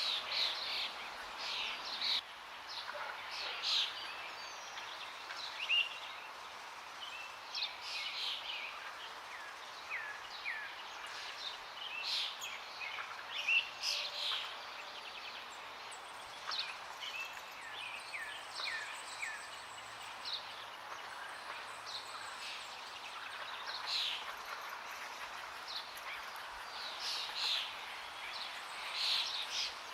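Forest birds chirping and calling, with many short, high chirps and quick falling notes through the whole stretch, over a steady rush of flowing water.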